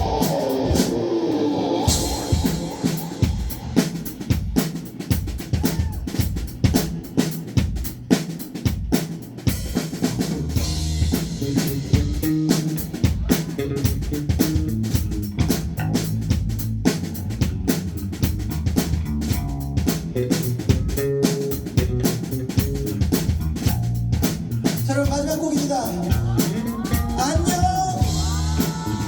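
Live rock band playing an instrumental intro: a drum kit keeps a steady beat of kick and snare under bass and melodic instruments.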